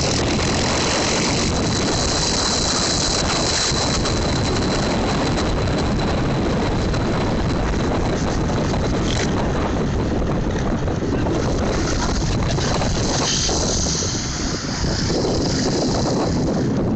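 Small motorcycle engine running, heard under heavy wind buffeting on the microphone, with a dip in loudness about fourteen seconds in.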